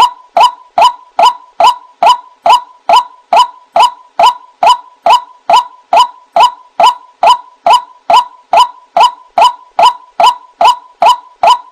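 White-breasted waterhen (ruak-ruak) calling a long, evenly paced series of short "wak" notes, about two and a half a second, each rising quickly to the same pitch.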